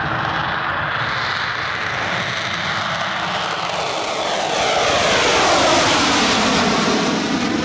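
Avro Vulcan XH558's four Rolls-Royce Olympus jet engines running at high power as the bomber passes. The roar builds about halfway through, and a whine falls in pitch as it goes by.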